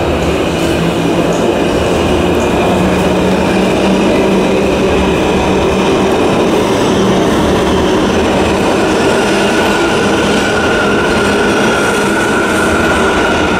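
New York City subway train running, a loud, steady rumble and rattle of the car on the rails, with a high squeal from the wheels held through the last few seconds.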